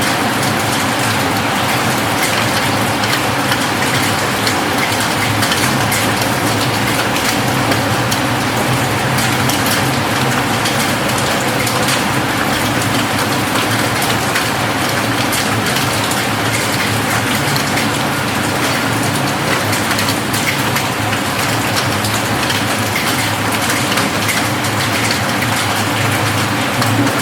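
Steady rain falling on a roof: a dense, even wash of rain with many individual drops ticking through it.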